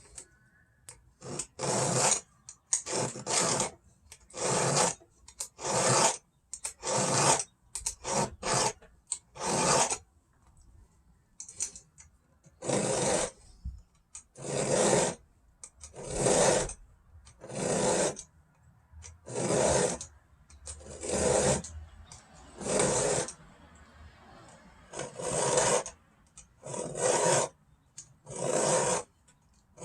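Hand file sharpening a chainsaw chain, rasping in separate strokes about once a second, with a short pause about ten seconds in.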